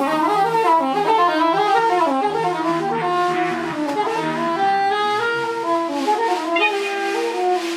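Live free-improvised jazz: a saxophone plays rapid, constantly shifting runs over a held low tone, settling onto one long sustained note near the end.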